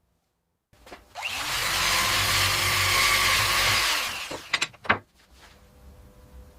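A power tool working wood runs loudly for about three seconds and winds down, followed by two or three sharp knocks.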